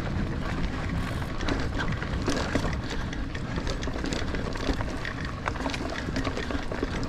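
Niner Air 9 RDO 29er mountain bike rolling along dirt singletrack: a steady rumble of tyres and wind with frequent small clicks and rattles from the bike.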